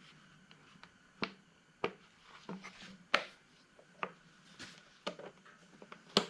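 A series of about six sharp clicks and knocks, irregularly spaced, from small lawnmower parts being handled and fitted by hand.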